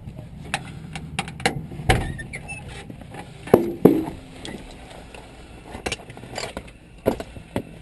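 Handling noises on metal: a scattered string of sharp clicks and taps, with two louder, briefly ringing metal clanks about three and a half and four seconds in.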